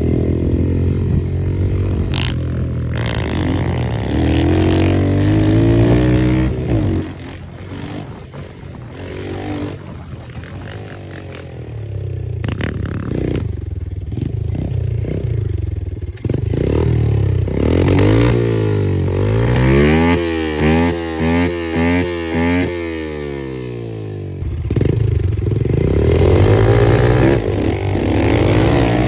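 Small pit bike engine running and being revved, its pitch rising and falling again and again, with a stretch of quick up-and-down revs a little past the middle.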